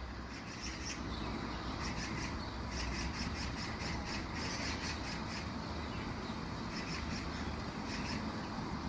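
Small birds chirping in the dawn chorus, quick runs of short high notes repeating throughout, over a steady low rumble.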